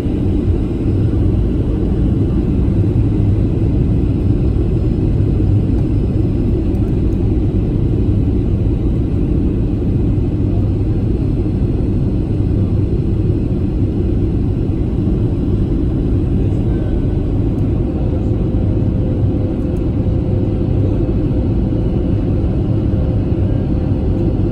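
Boeing 737-800 in flight, heard from inside the cabin: a steady low rumble of engine and airflow noise.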